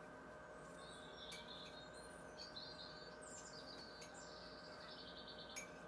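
Faint birdsong: small birds giving high chirps and short rapid trills, busiest in the second half, over a steady faint hum.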